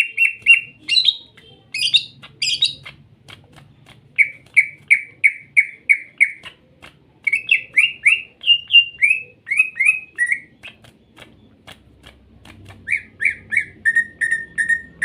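Cucak ijo (green leafbird) song: loud runs of clear, downward-slurred whistled notes, two or three a second, with a few higher, harsher notes about one to three seconds in. This is a lure recording played to prompt a quiet caged cucak ijo to sing.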